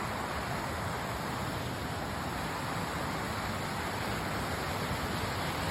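Steady rush of a mountain creek running over a string of small cascades, an even hiss without breaks.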